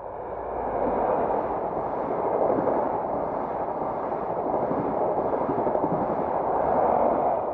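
Train passing over the level crossing: a loud, steady rush of wheel and rail noise that swells in at the start, holds for about six seconds and fades near the end.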